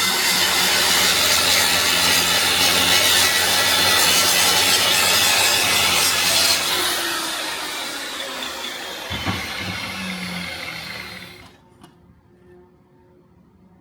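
An electric grinding tool running with a steady motor hum as it works the workpiece, then switched off about six and a half seconds in, the noise dying away over several seconds as it spins down.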